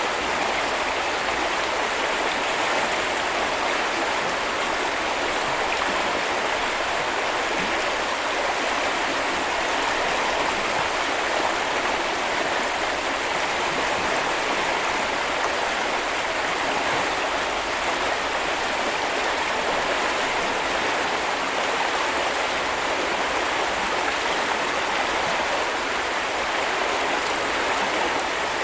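Small river or brook running steadily: an even, continuous rush and babble of flowing water.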